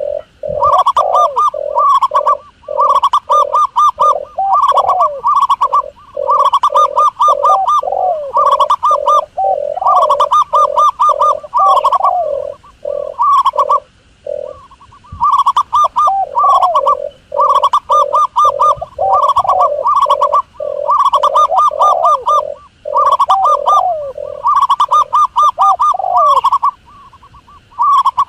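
Doves cooing, recorded as a hunting lure call: fast runs of repeated cooing notes in phrases of a second or two, broken by short gaps, with a longer pause about halfway through.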